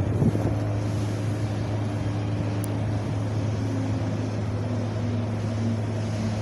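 Wind blowing steadily: a continuous low rumble and rushing noise with no gusts or breaks, under a faint low hum whose pitch drops slightly about halfway through.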